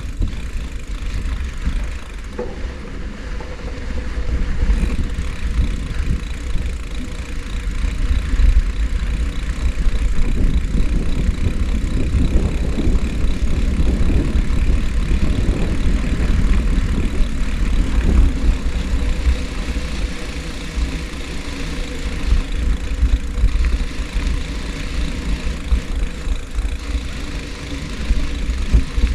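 Wind buffeting the microphone on a moving bicycle, a heavy uneven rumble that grows louder about eight seconds in and eases somewhat near the end.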